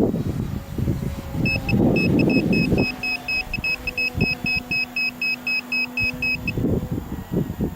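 Rapid electronic beeping, about four short beeps a second, starting a second and a half in and stopping about a second before the end. Gusty wind noise on the microphone at the start.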